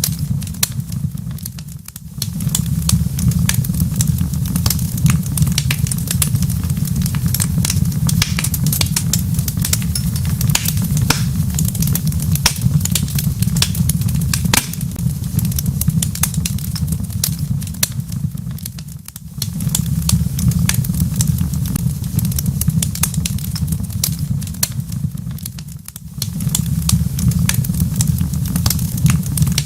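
Wood fire in a fireplace crackling, with a dense run of sharp pops and snaps over a steady low rumble. The rumble briefly dips three times.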